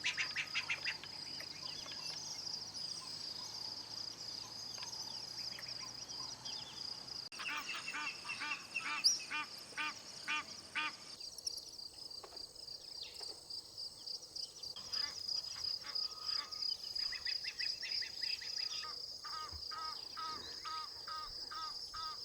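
Bush dawn chorus by a river: a steady high-pitched insect trill under birds calling in repeated series of sharp notes. A faint low hum stops about seven seconds in.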